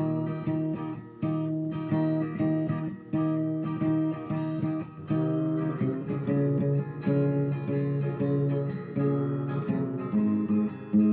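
Acoustic guitar strummed in a steady rhythm, about two chord strokes a second, changing chords twice: an instrumental break with no singing.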